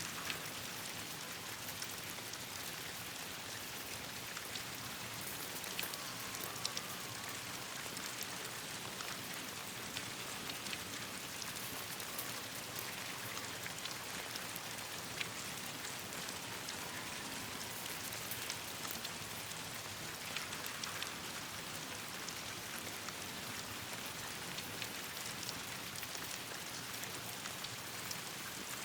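Steady rain falling on leaves and branches: an even hiss with many scattered sharp ticks from individual drops.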